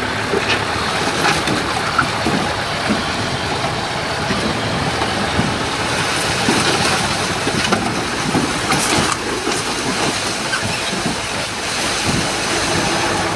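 Heavy earthmoving machinery at work, most likely a crawler bulldozer: a steady diesel engine note with the clanking and rattling of steel tracks and scattered metallic knocks.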